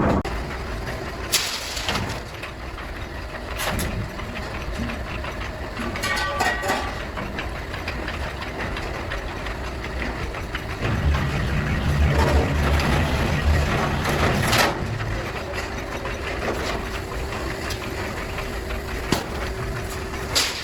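A motor running steadily, heavier and more pulsing for a few seconds near the middle, with sharp knocks now and then.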